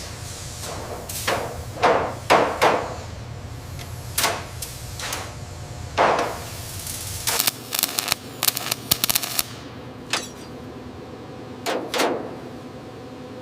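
Car assembly-line work: a series of separate knocks and clanks, with a quick run of sharp clicks in the middle, over a low machinery hum that stops about seven seconds in.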